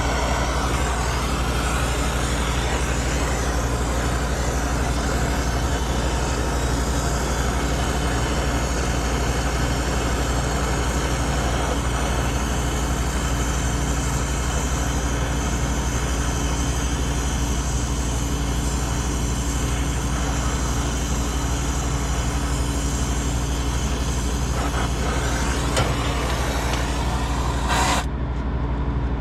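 A machine running steadily with a low, pulsing hum and a hiss; the hiss cuts off suddenly near the end while the hum goes on.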